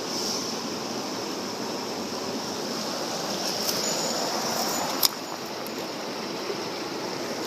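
Mountain stream water rushing steadily, with a single sharp click about five seconds in.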